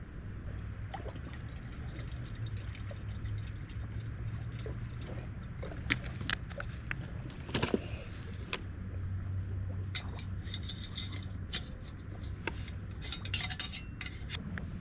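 Jetboil camp stove heating water, a steady low hum under the whole stretch, with scattered sharp metal clinks and small liquid sounds in two busier spells about two-thirds of the way through and near the end.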